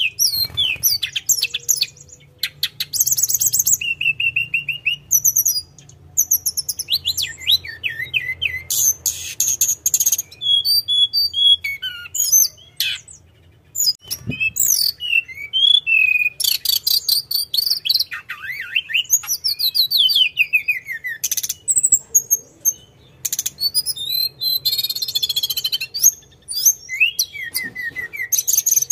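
Tledekan gunung (a mountain flycatcher kept as a songbird) singing nonstop in a varied, rolling song of quick chirps, rapid trills and sweeping whistles with only brief pauses, the bird in full song.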